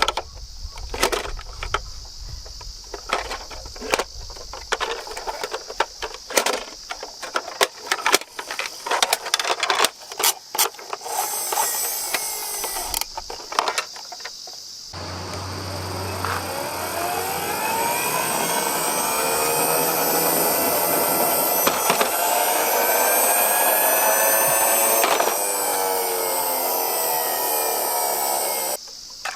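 Small die-cast toy trucks clacking and rattling against one another and the box, then a run of them rolling down a steep ramp with a rising whir from their spinning wheels that levels off and cuts off suddenly near the end.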